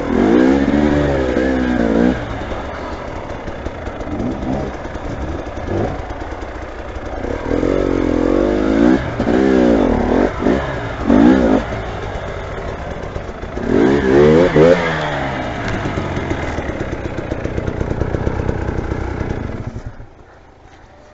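Motorcycle engine revving in repeated bursts, its pitch swinging up and down, with steadier running in between. The engine sound drops away sharply near the end.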